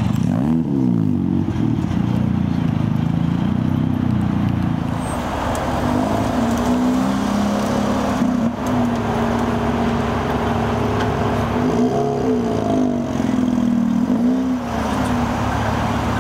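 Mazda two-rotor rotary engines pulling away at low revs. A rev rises and falls in the first second as one car leaves. Then a Mazda RX-8's rotary engine runs steadily, with two short throttle blips near the end as it pulls out.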